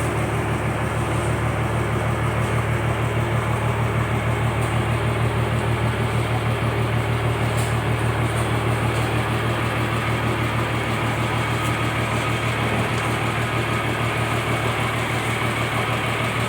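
Fishing boat's engine running steadily, with an even low throb.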